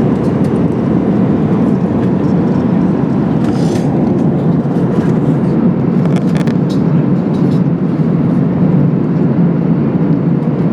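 Steady, loud cabin noise inside an Airbus A380, a low, even rumble of engine and air noise, with a few faint clicks about four and six seconds in.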